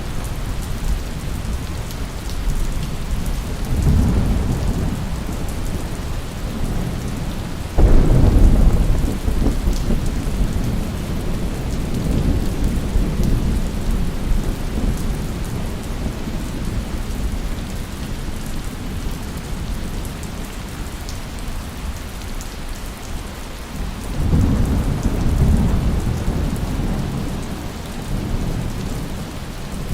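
Steady rainfall with rolling thunder. A sharp thunderclap about eight seconds in rumbles away over several seconds, and lower rumbles swell in about four seconds in and again near the end.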